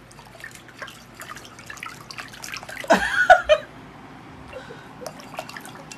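A ferret splashing and dabbling with its head in a bowl of water: small drips, slaps and splashes throughout. A short voice-like sound comes about halfway through and is the loudest moment.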